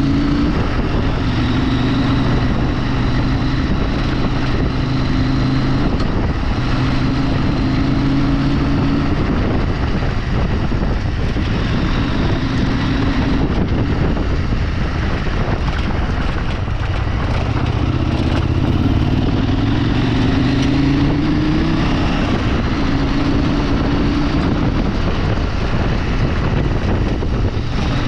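Off-road vehicle being driven on a rough track. The engine note rises and falls several times with the throttle, over a continuous rumble of tyre, road and wind noise.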